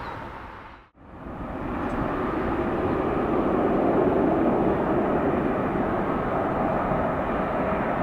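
Jet airliner engine noise, an Airbus A330-900 on approach to land, swelling after a brief cut-out about a second in and then holding steady.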